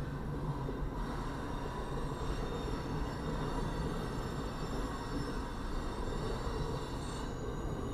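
Double-stack intermodal freight train's well cars rolling past, a steady rumble of steel wheels on rail. A thin high ringing runs over it and fades near the end. Heard from inside a parked vehicle, through the windshield.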